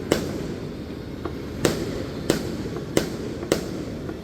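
Fireworks bursting: about five sharp bangs at irregular intervals, roughly half a second to a second and a half apart, with a couple of fainter pops between them, over a steady background noise.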